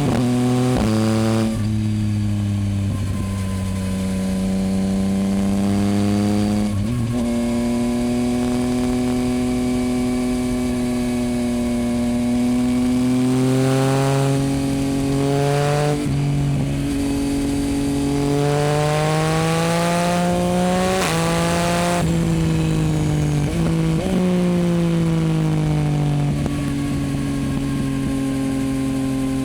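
2024 Yamaha MT-09's inline three-cylinder engine through a Dominator HP8 exhaust, being ridden: the exhaust note rises under throttle and drops sharply at gear changes and throttle lifts several times, with a long rising pull about eighteen to twenty-one seconds in.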